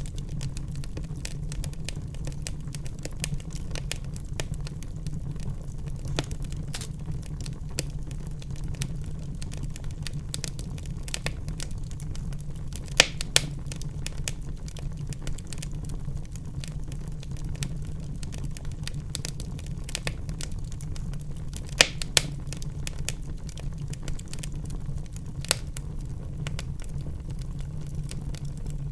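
A fire burning in a fireplace, crackling irregularly over a steady low rumble. Louder pops come in two pairs, about halfway through and about three-quarters of the way through.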